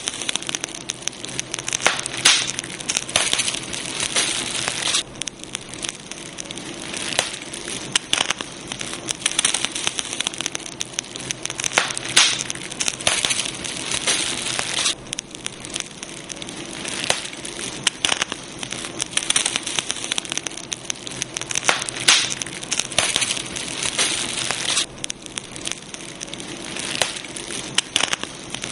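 Campfire burning, wood crackling and popping in a dense, unbroken run of sharp snaps over a steady hiss.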